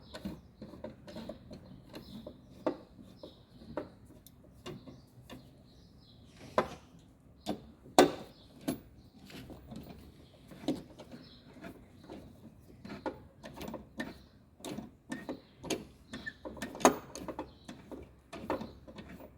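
Irregular clicks and knocks of hand tools and plastic and metal parts as a washing machine's motor stator is fitted and fastened back onto the drum, with two sharper knocks, one about eight seconds in and one near the end.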